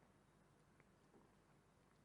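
Near silence: faint room tone in a pause in the speech.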